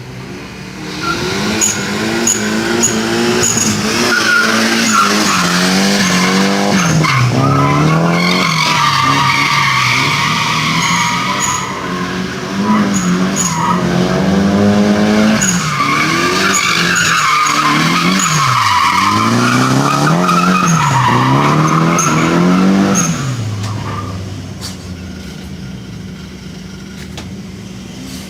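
Drift car engine revving hard, its pitch climbing and dropping over and over, with tyres squealing through a long slide. The revving and squeal stop at about 23 s, leaving a lower, steadier engine sound.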